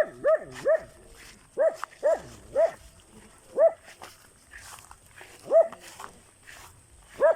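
A dog barking repeatedly: about nine short, sharp barks, mostly in quick twos and threes with pauses between.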